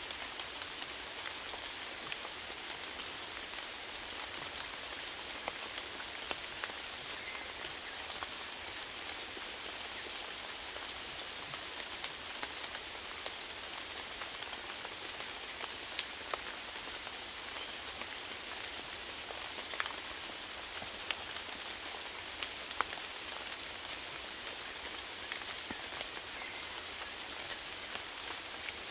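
Steady rainfall: a continuous hiss of rain with scattered individual drops ticking sharply on a surface.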